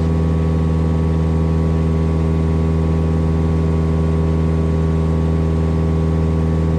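Cessna 172S Skyhawk's four-cylinder Lycoming engine and propeller droning steadily at climb power, heard from inside the cockpit.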